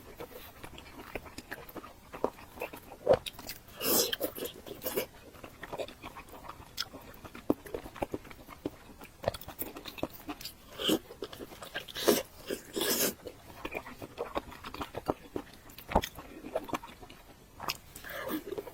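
Close-up eating sounds: irregular biting, chewing and wet mouth clicks.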